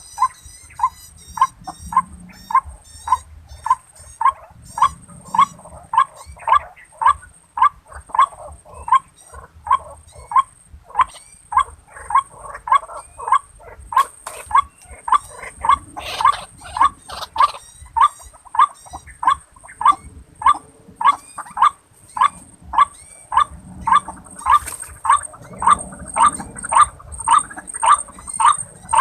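White-breasted waterhen (ruak-ruak) calling over and over, an evenly paced series of short harsh notes about two a second.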